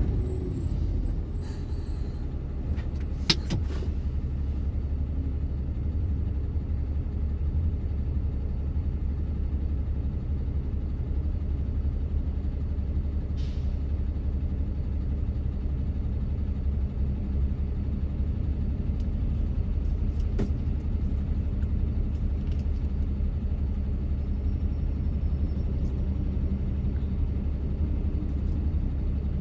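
A truck driving through city traffic: a steady low engine and road rumble with a sharp click a little over three seconds in.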